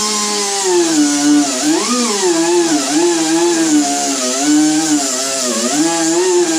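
Electric angle grinder running continuously on door steel, its whine wavering up and down in pitch as it is pressed into the metal and eased off, over a steady hiss.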